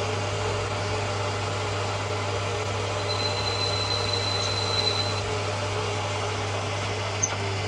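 Steady hum of workshop machinery running. A thin high whine sounds for about two seconds midway, and there is a single sharp click near the end.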